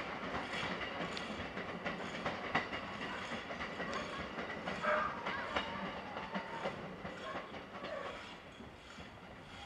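JR 209 series 500 electric train running away over the rails, its wheels clicking over rail joints and points, the sound growing fainter over the last few seconds.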